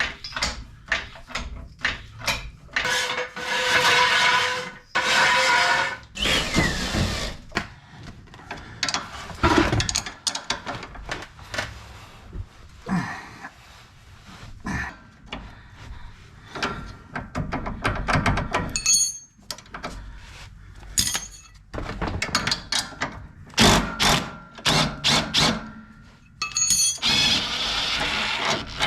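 Metal hand tools clanking and knocking on a car, with a power tool running in a few short bursts.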